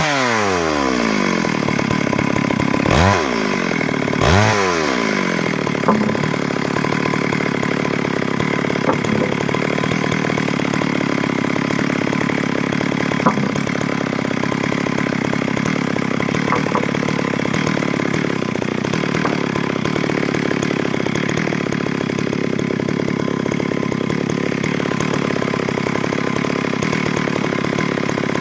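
Stihl MS 382 two-stroke chainsaw dropping from cutting speed to idle, revved up twice in quick succession a few seconds in, then idling steadily.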